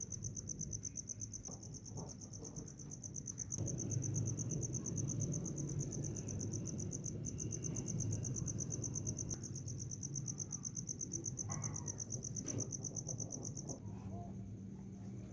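A cricket trilling steadily: a high, fast-pulsing trill that weakens near the end. Underneath, from about three and a half seconds in, there is a low rumble of noise.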